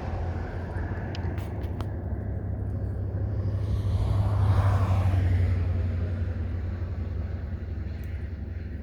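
Steady low vehicle engine rumble that swells about four to five seconds in and then eases off, with a few faint ticks early on.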